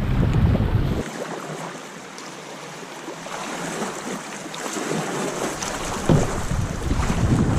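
River water rushing steadily over rapids, with wind buffeting the microphone in the first second and again from about six seconds in.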